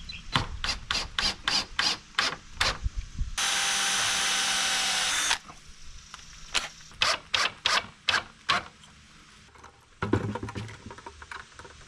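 Woodworking on a 2x4 roost bar: quick rhythmic strokes on wood, about three a second, in two runs. Between them a power tool runs steadily for about two seconds.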